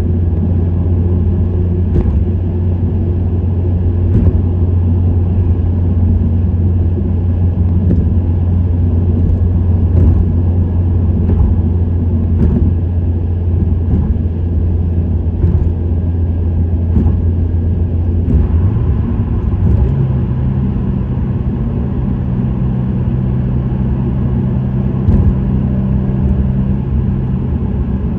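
Subaru WRX STI (VAB) 2.0-litre turbocharged flat-four with an STI Performance muffler, cruising on the expressway: a steady low exhaust drone over road noise. About two-thirds of the way through, the drone steps up slightly in pitch.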